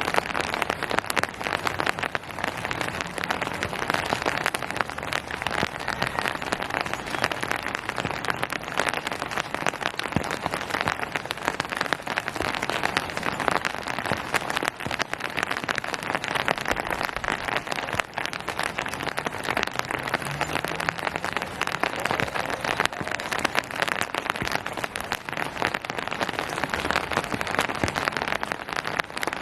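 Steady rain falling, a dense, even patter of raindrops on surfaces.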